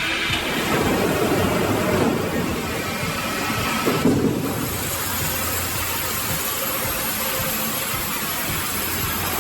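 Heavy machinery running steadily, an engine-like mechanical noise, with a sudden change in the sound about four seconds in.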